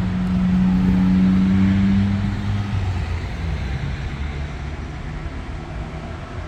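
An engine running steadily, a low hum that drops lower and quieter a little under three seconds in.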